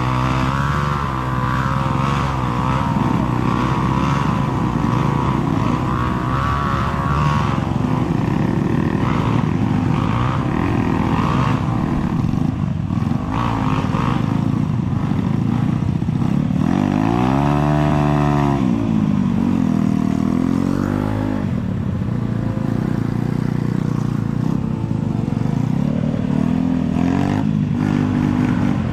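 Enduro dirt bike engine running continuously, its pitch rising and falling with the throttle, with one clear rev up and back down about two-thirds of the way through.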